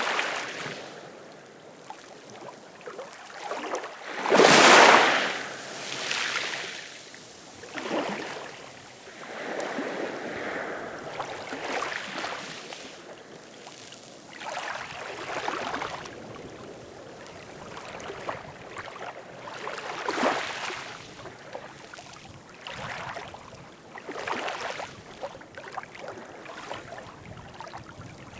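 Ocean waves washing in, an irregular series of swells every few seconds, the biggest about four to five seconds in.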